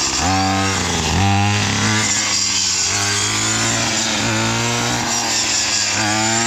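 Gas weed whacker (brush cutter fitted with a chainsaw-tooth blade) running hard, its engine revving up sharply several times (near the start, about a second in, and near the end) and holding high between.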